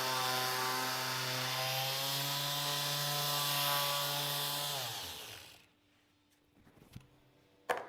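Electric power sander running steadily with a high hiss over the motor's hum. About five seconds in it is switched off and its pitch falls as it spins down. A couple of light knocks follow near the end.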